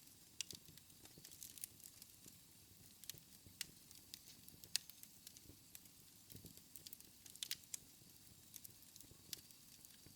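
Faint wood fire in a fireplace crackling, with many irregular sharp pops over a soft low rumble of the flames; the loudest pop comes about five seconds in.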